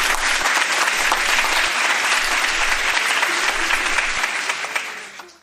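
An audience applauding: dense, steady clapping that eases slightly near the end and then cuts off abruptly.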